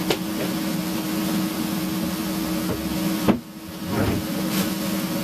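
A steady appliance hum with hiss runs throughout, broken by sharp knocks of cookware. There is one knock just after the start, a louder one about three seconds in, after which the hum briefly drops, and another near the end.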